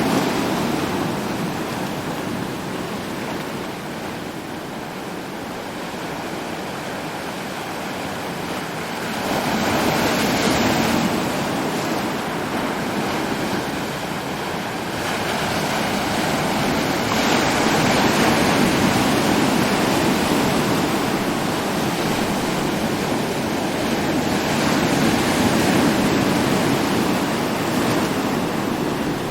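Ocean surf: waves breaking and washing in without a break, the roar swelling with a bigger wave about every six to eight seconds.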